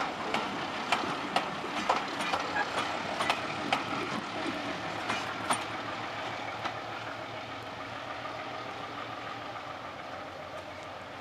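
Train of passenger coaches rolling past, its wheels clicking over the rail joints. The clicks thin out after about six seconds and the rumble fades as the train draws away.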